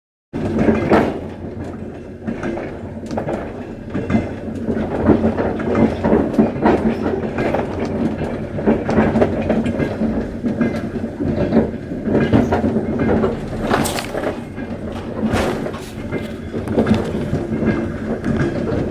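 Train rolling along the rails: a continuous rumble with a steady hum and frequent sharp wheel clicks and knocks over the track. It starts abruptly just after the beginning.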